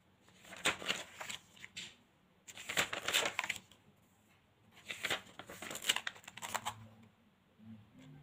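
Paper rustling and crinkling as sheets or notebook pages are handled, in three short bouts a couple of seconds apart.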